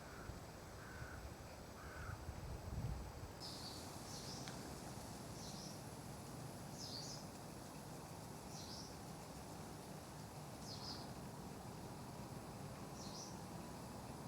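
A crow cawing three times, then a small bird repeating a short, high call about every second or two. A brief low rumble comes about three seconds in.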